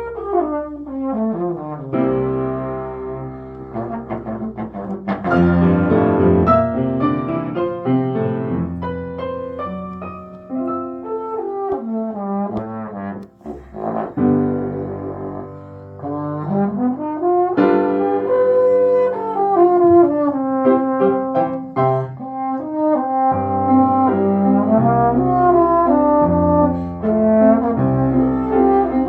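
Brass instruments playing together, holding and moving between notes, with a slide down in pitch near the start and a slide up a little past halfway.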